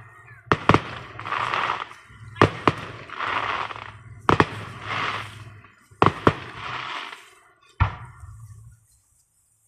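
Fireworks going off: sharp bangs, mostly in pairs about every two seconds, each pair followed by about a second of crackling. The bangs stop shortly before the end.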